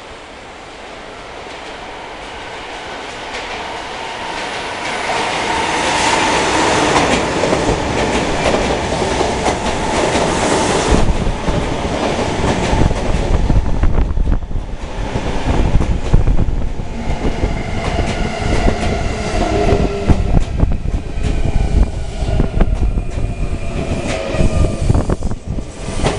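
Sagami Railway electric train approaching and running close by, getting louder over the first several seconds. From about eleven seconds in there is a heavy rumble with wheels clattering over the rail joints, and whining tones in the second half.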